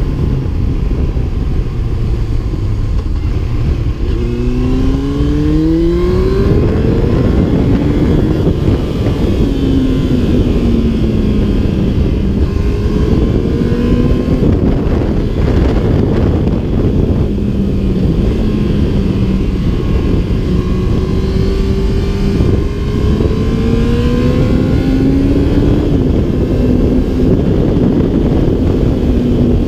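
A 2001 Yamaha R1's 998 cc inline-four engine under way. The revs sag at first, then climb steeply about four seconds in as it accelerates, and afterwards hold fairly steady with a few smaller rises and falls. Heavy wind rush buffets the microphone underneath.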